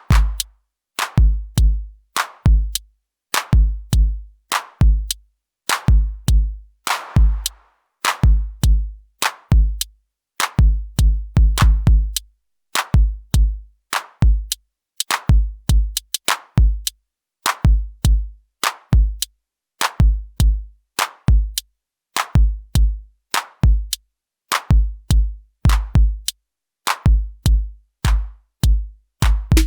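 Elektron Syntakt drum machine playing a dry electronic beat: short clusters of deep synthesized kick drums about once a second, with sharp clicky percussion hits and an occasional noisy snare-like hit, separated by brief gaps of silence.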